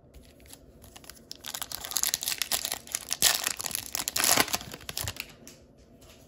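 Crinkling and tearing of a hockey card pack's foil wrapper as it is torn open, a dense crackle that builds about a second and a half in and dies away after about three and a half seconds.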